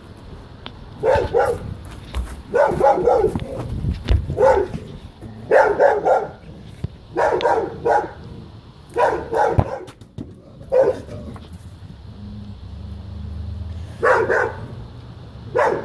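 A dog barking angrily and repeatedly, in single barks and quick runs of two or three, with a pause of about three seconds after the middle.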